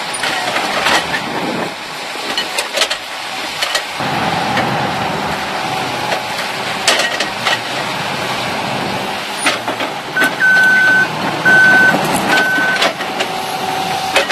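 Excavator engine working under load, with scattered sharp cracks and knocks, the engine noise growing fuller about four seconds in. About ten seconds in, a reversing alarm beeps four times.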